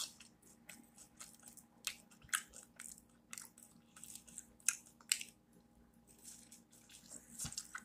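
A person chewing and biting crispy fried potato: soft, irregular crunches and mouth clicks, with a faint steady hum underneath.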